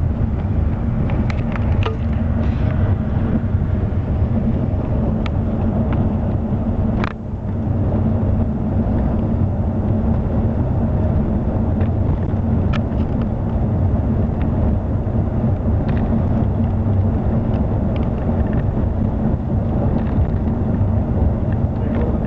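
Scania K360 coach on the move: a steady low engine and road rumble with light rattles, dipping briefly about seven seconds in before resuming.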